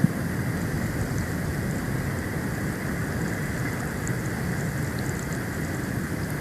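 Steady storm wind rushing over the outdoor nest-cam microphone during a snowstorm, a low even noise with no breaks. A single sharp click comes right at the start.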